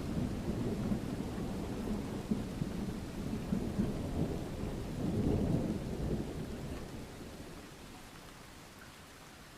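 Rolling thunder rumbling over steady rain, swelling about halfway through and then dying away over the last few seconds.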